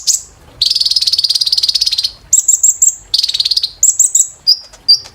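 Kolibri Ninja sunbird singing a very high-pitched, fast song. A dense trill lasts about a second and a half, then come quick runs of sharp notes and another trill, and a few short separate chirps close it.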